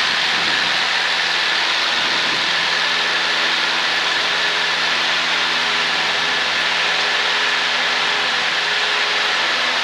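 Cessna 152's four-cylinder Lycoming engine and propeller running steadily at full takeoff power. The engine's pitch settles about two seconds in and then holds even, over a loud rushing hiss.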